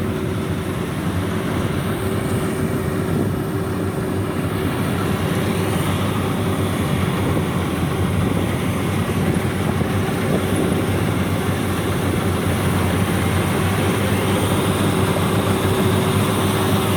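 Rice combine harvester's diesel engine running steadily under load, a constant mechanical drone with a steady hum.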